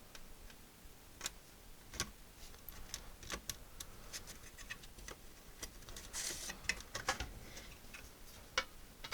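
Light, irregular clicks and taps from small metal and plastic computer parts being handled, with a short hiss about six seconds in.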